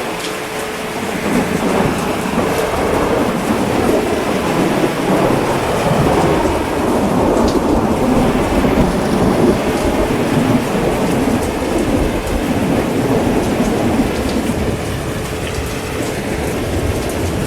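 Steady heavy rain with a long roll of thunder that swells about a second in and eases off near the end.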